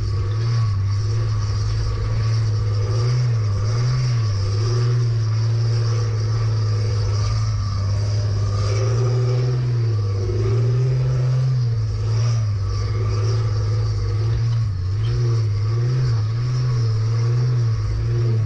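Four-wheel drive's engine pulling through soft sand, the engine note rising and falling repeatedly with the throttle.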